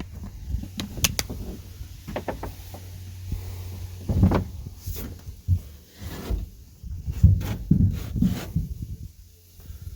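A series of irregular knocks, clicks and scrapes from hard objects being handled, loudest in clusters around the middle and late part.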